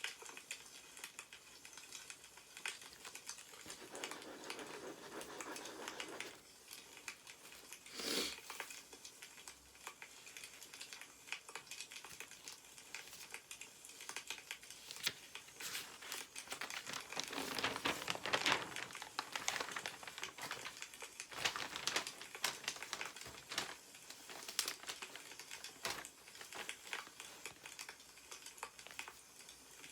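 Crackling wood fire ticking and popping throughout, with newspaper pages rustling as they are handled and turned a few times, longest at about 4 seconds in and from about 16 to 19 seconds.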